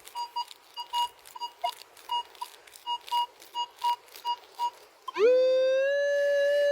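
Minelab X-Terra Pro metal detector giving short repeated beeps, two or three a second. About five seconds in it switches to a loud tone that glides up in pitch and then holds steady. This is the detector sounding off on a strong buried metal target.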